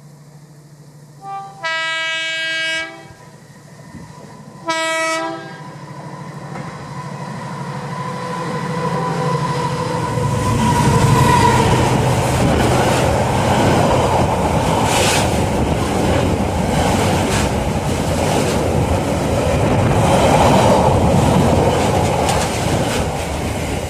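Freightliner Class 70 diesel locomotive sounding its horn, a long blast about two seconds in and a short one about five seconds in, then its engine running as it comes closer. From about ten seconds on, a long rake of loaded box wagons rumbles past with a rhythmic clickety-clack of wheels on the rails.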